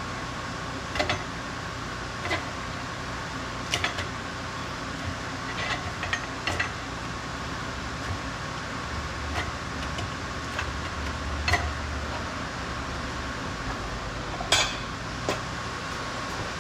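Scattered light metallic clinks and knocks of tools or parts being handled, about a dozen at irregular intervals, over a steady workshop hum with a faint high whine.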